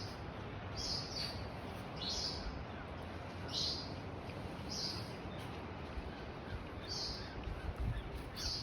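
A bird calling over and over, about eight short high chirps that each drop in pitch, spaced unevenly about a second apart, over a steady background hiss.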